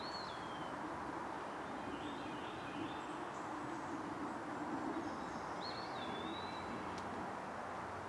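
Bird calls over a steady background rumble: a whistled call that rises and then slides down, once at the start and again about six seconds in, with a short chattering call between.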